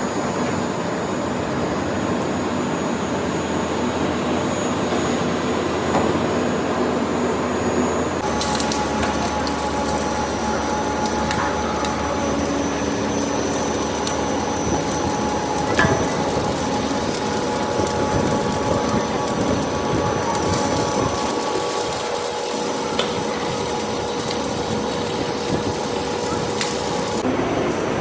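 Tyre-factory machinery running, a steady mechanical noise with a few held whining tones. The sound changes abruptly about eight seconds in and again near the end.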